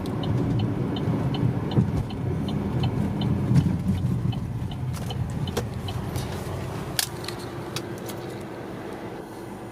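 Road and engine noise inside a moving car, fading as the car slows to pull off, with a turn signal ticking about two and a half times a second for the first six seconds or so and a few sharp clicks later on.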